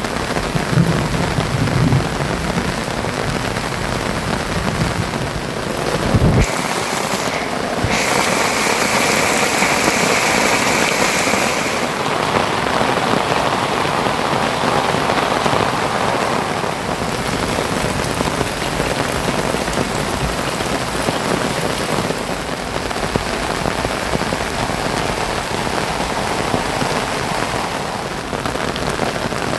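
Heavy rain falling steadily, a dense hiss of rain on surfaces.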